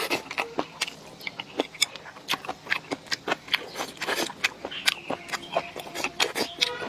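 Close-up chewing and mouth sounds of a person eating: rapid wet smacks and crunchy clicks, several a second.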